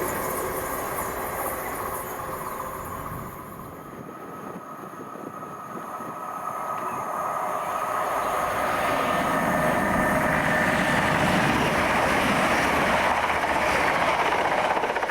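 A train running through a station: the rumble dies down to a low about four seconds in, then builds steadily from about six seconds as a train comes close, with steady whining tones over the wheel noise, and stays loud to the end.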